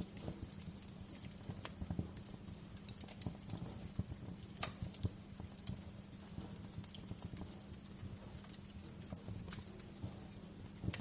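Wood fire in a fireplace crackling: irregular sharp pops and snaps over a low, steady hum.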